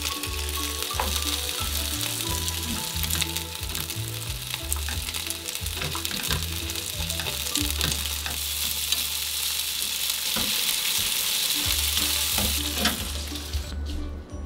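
Cod fillet, cherry tomatoes and green beans sizzling in oil in a non-stick frying pan on low heat. The sizzle is steady and cuts off suddenly near the end.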